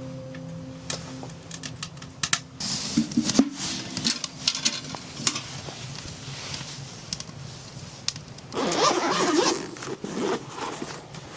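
Irregular clicks, taps and scratching of things being handled, with a louder rustle about nine seconds in. A low hum fades out in the first second.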